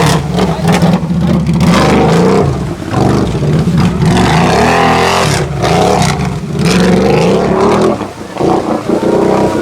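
Off-road vehicle engine revving hard at high throttle, its pitch rising and falling as the rider works the throttle, easing off briefly about three seconds in and again near the end.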